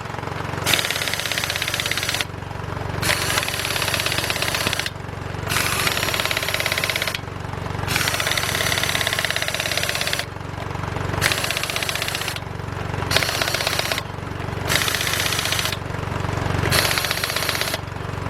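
Craftsman 16882 half-inch air impact wrench hammering in about eight bursts of one to two seconds each as it tightens a wheel's lug nuts in a star pattern. An air compressor runs steadily underneath. The gun sounds weak, nowhere near its rated 400 foot-pounds.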